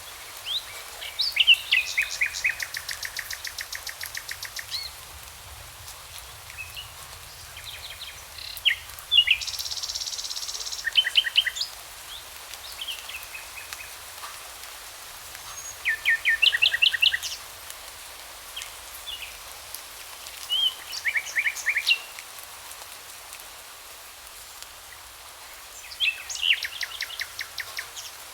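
Songbirds singing: bursts of rapid trills and chirps recurring every few seconds, over a steady background hiss.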